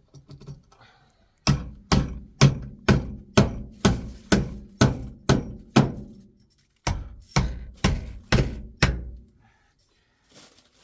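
Hammer driving a nail into wooden roof framing: about ten sharp blows at roughly two a second, a short pause, then five more, each with a high metallic ring.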